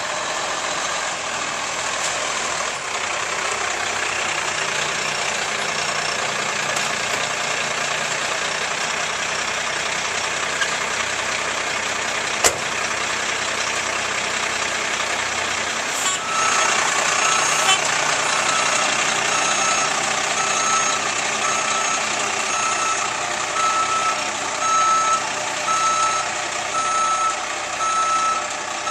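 Fire trucks running with a steady rush of water spraying from their hoses or deck guns. About halfway through, a truck's backup alarm starts beeping about once a second over it.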